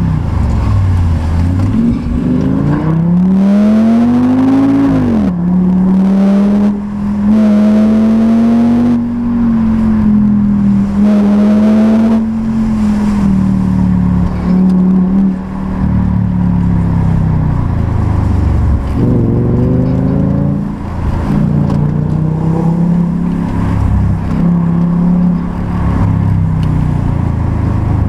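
Audi S6's 5.2-litre V10, heard from inside the cabin and pulling hard. The revs climb out of a bend, drop at an upshift about five seconds in, and hold steady. The engine eases off later, then picks up again and settles into a steady pull.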